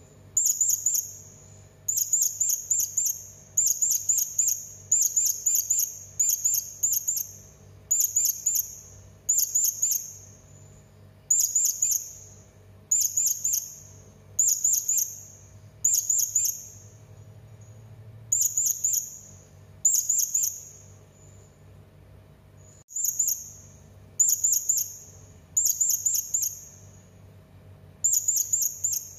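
Blue-crowned hanging parrot (serindit) giving shrill, very high-pitched calls: short bursts of several rapid notes, repeated about once a second, with a pause of a couple of seconds about two-thirds of the way through.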